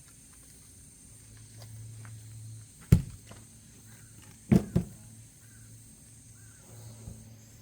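An axe striking a log to split it: three sharp knocks, one about three seconds in and two in quick succession about a second and a half later.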